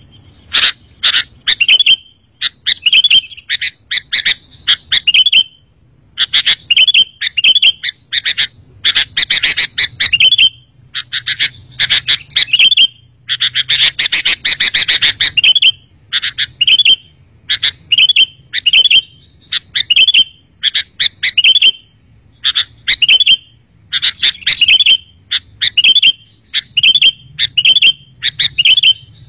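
Sooty-headed bulbul (kutilang) song: bright, chirpy phrases repeated about once a second with short pauses, and a denser, harsher burst of chatter near the middle. It is a loud lure recording for drawing bulbuls in and prompting them to answer.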